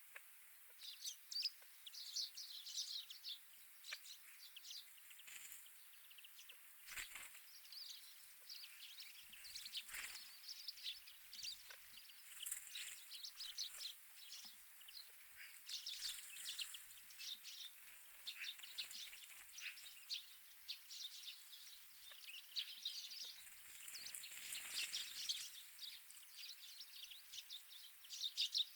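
Wild winter birds chirping and calling without a break, many short high notes overlapping. Two brief knocks come about a quarter and a third of the way in.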